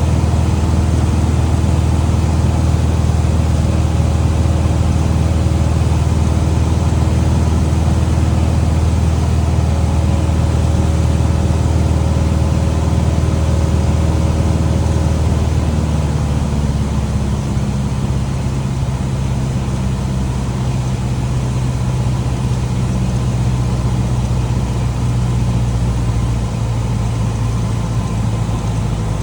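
Small airplane's engine and propeller droning steadily, then dropping in pitch about halfway through and settling lower as power is pulled back for the landing approach.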